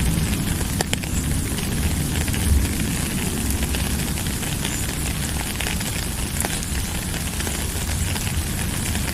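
Steady rain falling, a dense even hiss with many scattered drip clicks and a low rumble underneath.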